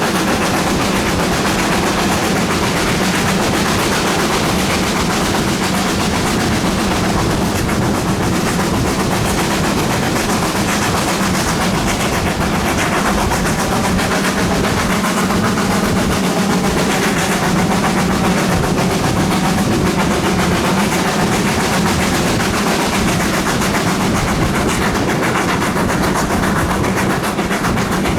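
GWR Manor-class 4-6-0 steam locomotive 7820 Dinmore Manor working hard, its exhaust beats coming fast and very loud over a steady drone.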